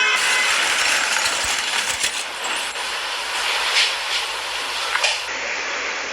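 Steady vehicle and traffic noise with a few short knocks, the sound changing abruptly a little after five seconds in.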